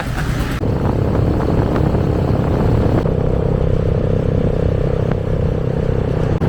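Motorcycle running at road speed with wind noise, a steady low rumble with a hum that grows stronger about three seconds in.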